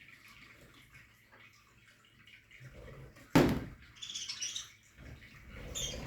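Budgerigars in a colony aviary chirping in short high clusters, with one sudden loud thump about three and a half seconds in.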